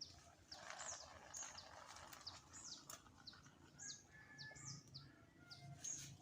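Small birds chirping: many short, high notes sliding quickly downward, repeated through a near-quiet pause, over a faint low hum.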